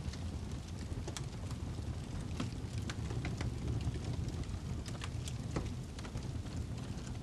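Wood fire burning in a fireplace, a steady low roar of flames with frequent sharp crackles and pops from the burning log.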